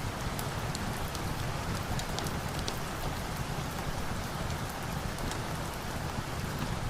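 Steady rain falling, with a low rumble beneath and many scattered sharp ticks.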